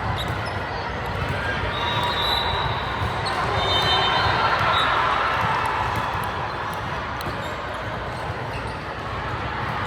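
Indoor basketball game: the ball dribbling and bouncing on the hardwood court, short sneaker squeaks about two to five seconds in, and spectators talking in the echoing gym.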